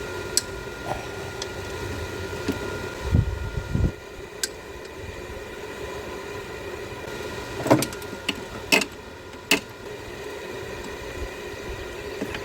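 Hand tools clicking and knocking against metal under the hood while the alternator is unbolted, with a few low thuds about three seconds in and sharp clinks near the end, over a steady hum.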